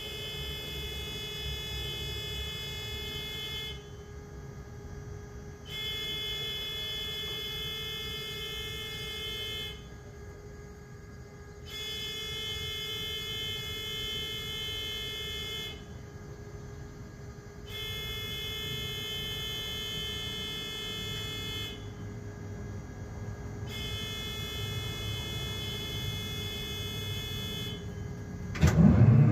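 Diesel locomotive start-up: a buzzer tone sounds in repeated cycles, about four seconds on and two off. Then, about a second before the end, the diesel engine suddenly starts cranking, its pitch rising as it fires.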